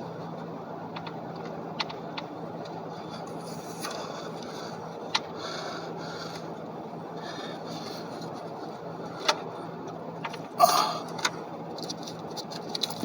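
Light scraping and small metal clicks as a valve cover is worked down onto the cylinder head over a new gasket, with a louder knock and rattle about ten and a half seconds in. A steady low hum runs underneath.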